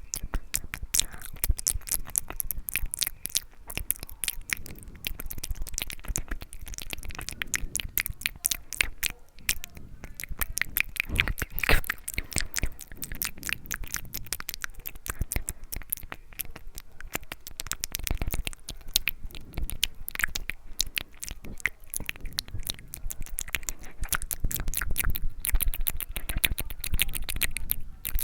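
ASMR mouth sounds: a dense, unbroken stream of small mouth clicks and smacks close to the microphone.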